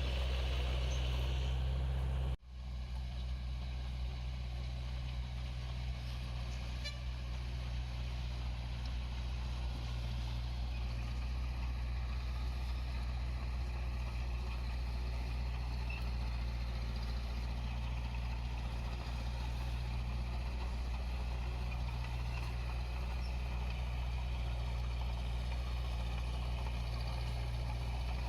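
Heavy-equipment diesel engine running steadily with a deep, even hum. The sound cuts out for an instant about two seconds in, then carries on.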